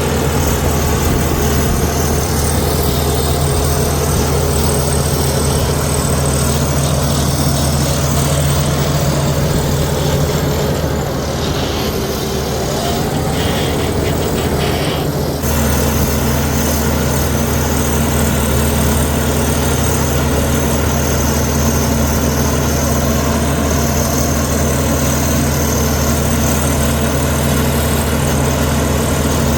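Heavy diesel engine of a Komatsu D61EX bulldozer running steadily. It eases off briefly about halfway through, then changes abruptly.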